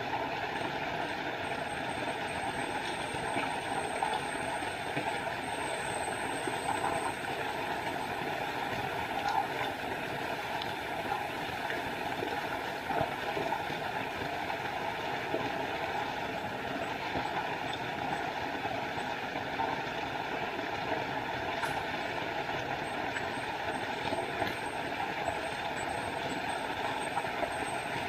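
Small forest waterfall: water rushing and splashing steadily, without a break.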